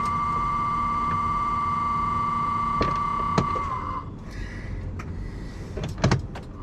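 A semi truck's cab warning buzzer sounds as one steady high tone and cuts off about four seconds in, while the truck fails to start. Sharp switch-like clicks follow, a quick pair of them about six seconds in.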